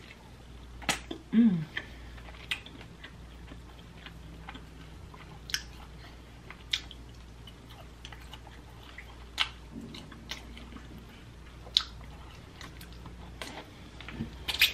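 Close-miked chewing and wet lip smacks of someone eating sauce-covered barbecue ribs off the bone, with sharp mouth clicks every second or so. A brief hum about a second and a half in is the loudest sound.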